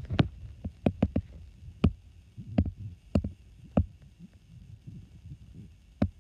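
Irregular sharp clicks and knocks, about one or two a second, over low thumping and rustle, like an object being handled and knocked.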